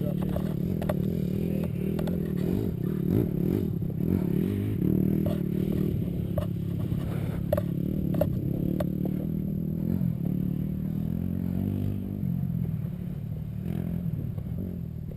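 Motocross bike engines running on the track, their pitch rising and falling as the riders throttle, with scattered sharp clicks and scrapes close by.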